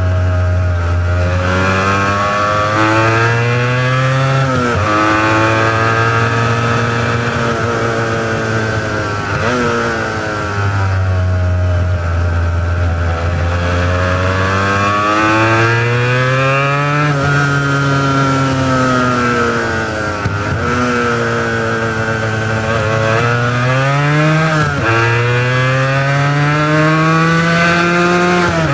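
Honda NS400R's two-stroke V3 engine on its original mufflers, ridden hard: the engine pitch climbs repeatedly and drops sharply several times, then climbs again.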